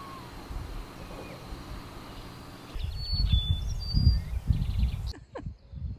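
Quiet outdoor ambience. From about three seconds in, a small songbird gives a few short, high chirps over an irregular low rumble.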